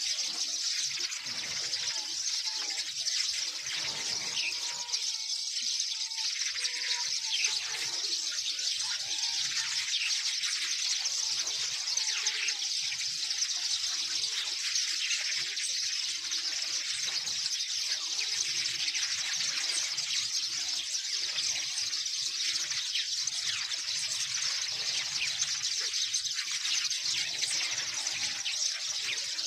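Dense, unbroken chattering of many small birds chirping together, high-pitched and steady in level.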